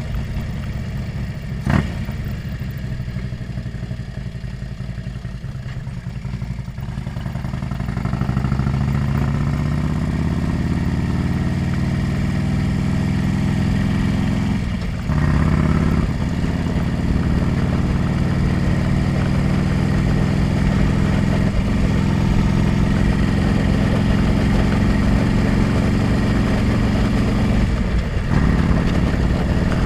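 Motorcycle engine heard from a helmet-mounted camera, running low at first and then accelerating from about eight seconds in, with brief dips at gear changes around halfway and near the end. A short sharp click about two seconds in.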